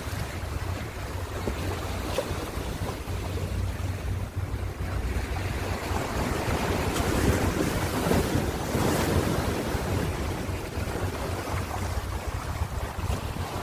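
Ocean surf: waves rolling in, one swelling and breaking about halfway through before washing back, over a steady low rumble of wind on the microphone.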